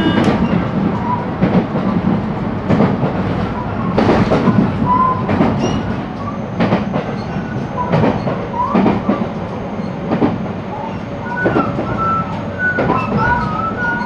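JR West 223 series electric train running at speed, heard from aboard the motor car: steady rolling noise with irregular clicks of the wheels over rail joints. Short high wheel squeals come in the second half.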